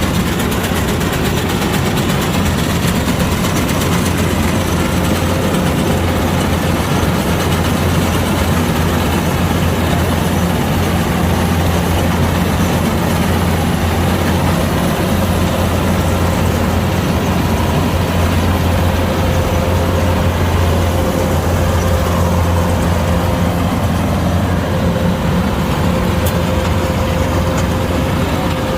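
Kubota DC-105X combine harvester's diesel engine running steadily, a constant low drone with a steady whine above it.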